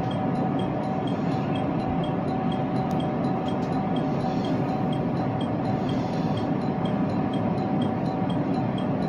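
Electric commuter train running slowly, heard from inside the car: a steady rumble with a constant hum.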